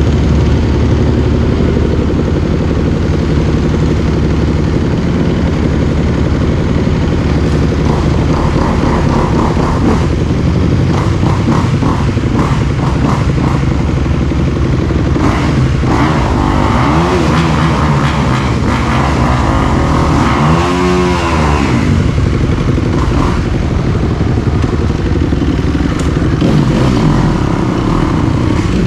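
Dirt bike engine running steadily, with the revs rising and falling twice in the middle.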